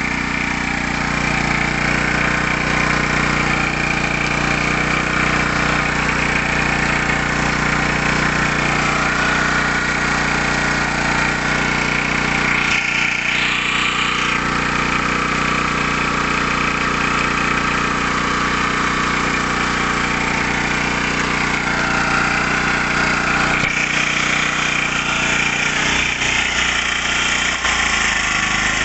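Nakatomi EG-1000 portable engine generator running steadily, with a small shift in its tone about halfway through and again near the end.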